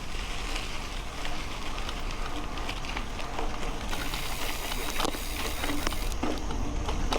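Mountain bike rolling on a dirt road: tyres crunching over gravel, with a scatter of small rattles and clicks from the bike and a steady low rumble of wind on the action camera's microphone.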